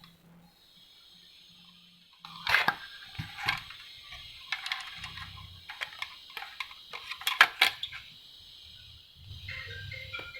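Irregular clicks, knocks and light rattles of hard printer parts being handled during disassembly, the loudest a few sharp knocks about two and a half, three and a half and seven and a half seconds in.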